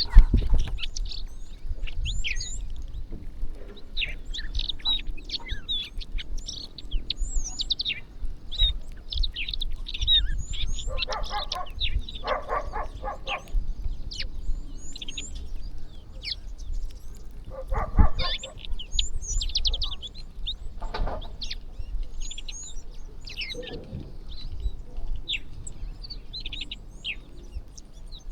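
A flock of small birds chirping, many short high calls overlapping without a break. Several times a lower, rapidly pulsing call cuts in: about 11 to 13 seconds in, and again around 18, 21 and 24 seconds. A sharp thump comes right at the start, over a low rumble.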